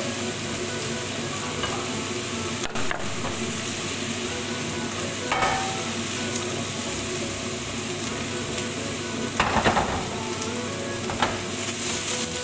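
Diced zucchini sizzling in a frying pan. A few brief rattles and scrapes come as the pan is shaken; the loudest is about nine and a half seconds in.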